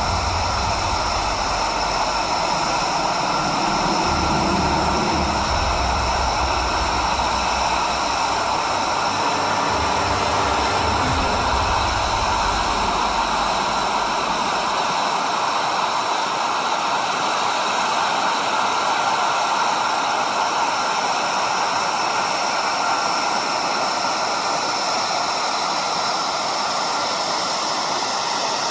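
Jet engine running steadily, a high whine over a strong hiss, with a low rumble that dies away about halfway through.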